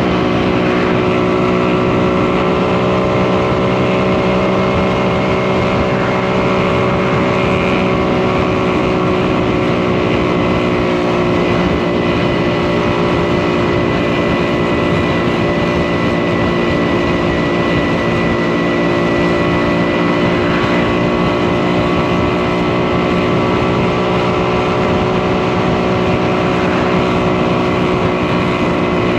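Post-war single-cylinder two-stroke motorcycle engine running at steady cruising revs, its pitch almost unchanging.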